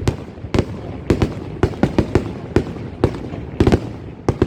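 Fireworks display: a rapid, uneven string of bangs and pops, often several a second, each with a short trailing echo.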